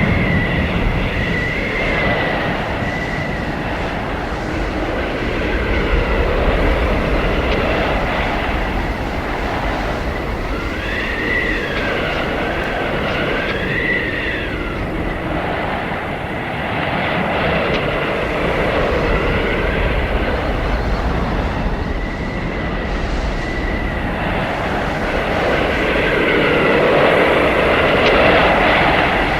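Howling blizzard wind: a steady roar of gusts that swell and ease every few seconds, with a thin high whistle that wavers and bends up and down.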